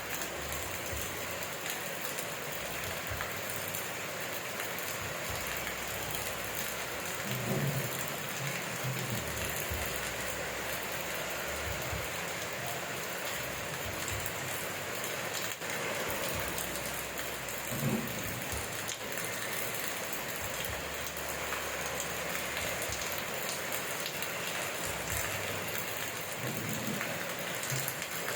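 Steady rain falling and pattering on surfaces, an even hiss, with a few brief low rumbles about a third, two thirds and nine tenths of the way through.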